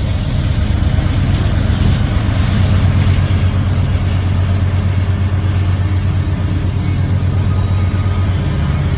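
A Norfolk Southern train running steadily, a low diesel-engine hum under a broad, even rumble.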